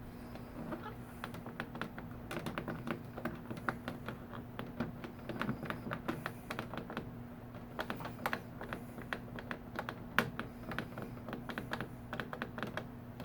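3D printer running with a steady low hum and a fast, irregular clicking and ticking, the sound the uploader presents as the printer's problem.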